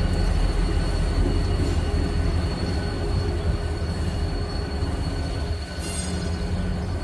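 Train rolling past: a steady low rumble with a thin high whine, and a brief high-pitched wheel squeal about six seconds in.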